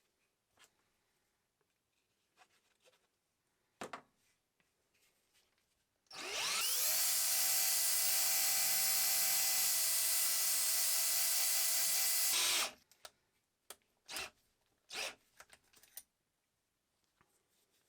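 A small electric power tool spins up quickly and runs at a steady speed for about six seconds, then stops abruptly. Light clicks and taps of parts being handled come before and after it.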